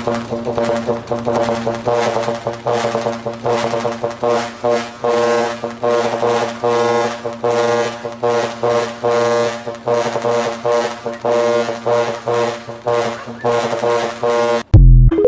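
Truck's musical air horn playing a quick tune in short pulsed notes. It ends with a very loud, deep horn blast near the end that cuts off sharply.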